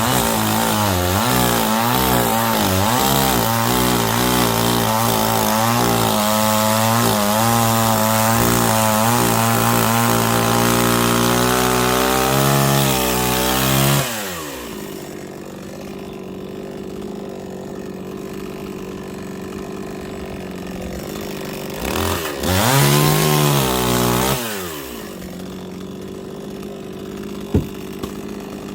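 Chainsaw at high revs for about fourteen seconds, its pitch wavering as it cuts wood. It then drops to idle, is revved briefly once about eight seconds later, and settles back to idle, with one sharp click near the end.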